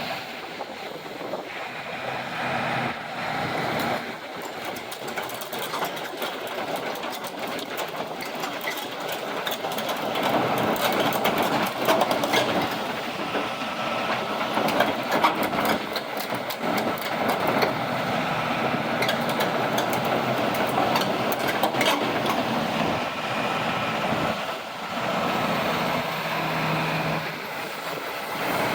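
Hitachi ZX250LC-6 crawler excavator's diesel engine running, with a stretch of rapid metallic clicking and clanking through the middle.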